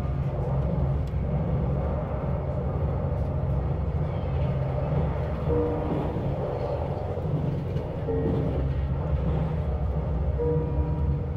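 Passenger train running, heard from inside the carriage: a steady low rumble, with a few short faint tones over it.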